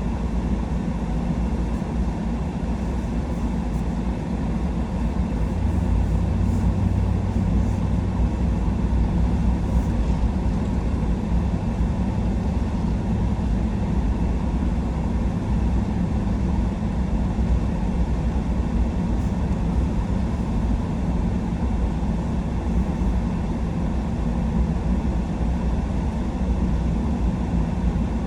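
Truck driving, its engine and tyre noise heard from inside the cab as a steady low rumble that grows a little louder about five seconds in.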